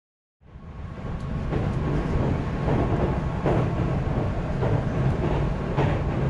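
Electric train running on rails: a steady low rumble with scattered sharp clacks of the wheels, fading in about half a second in.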